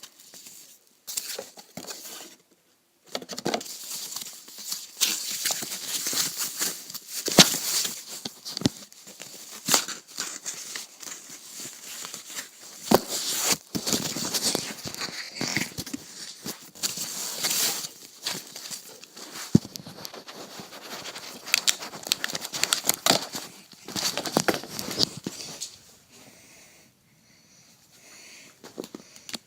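Packaging being handled and opened by hand: irregular crinkling and rustling with scattered sharp clicks and some tearing. It dies down over the last few seconds.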